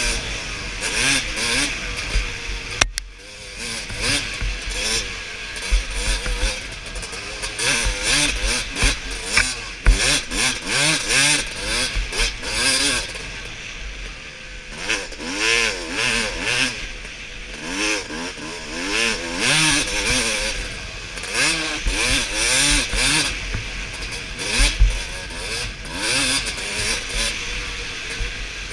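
Suzuki RM250 motocross bike's two-stroke engine revving hard and easing off again and again as it is ridden, its pitch sweeping up and down.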